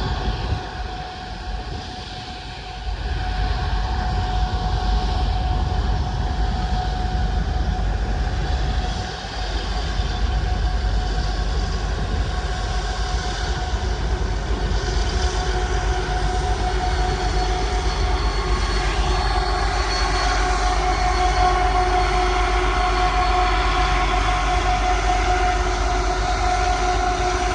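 Diesel freight locomotives, including a trailing SD70, working past under power: a loud, steady low engine rumble that swells about three seconds in, with a steady high whine over it.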